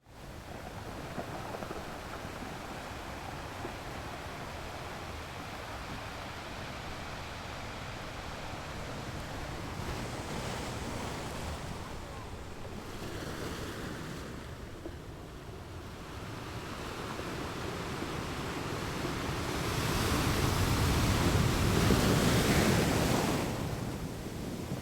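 Wind buffeting the microphone over the wash of the open sea, steady at first and swelling louder for a few seconds near the end.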